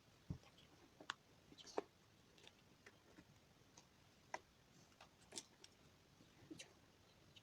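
Near silence with faint, irregular clicks and light knocks, like small objects being handled quietly indoors.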